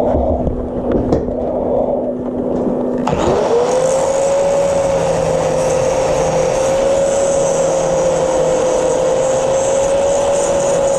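Angle grinder spinning up about three seconds in, with a quick rising whine that settles into a steady run, then grinding down a weld with a steady high hiss. A steady lower hum comes before it.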